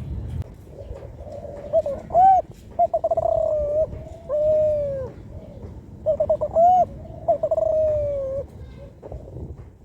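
Young spotted dove, about four months old, cooing twice: each phrase a few short rising notes, a quick stuttering run, then a longer falling note. It is a juvenile still learning to shape its coo.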